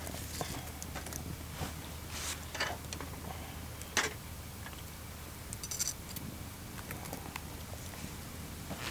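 Wood fire crackling, with scattered small clicks and one sharp pop about four seconds in. A brief light jingle comes just before six seconds.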